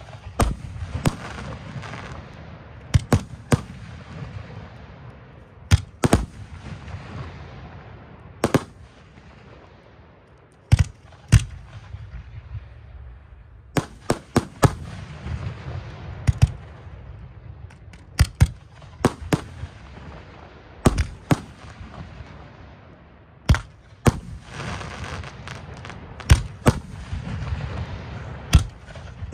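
Aerial fireworks shells bursting one after another, a sharp bang about every second and sometimes two in quick succession, over a steady hiss between the bangs.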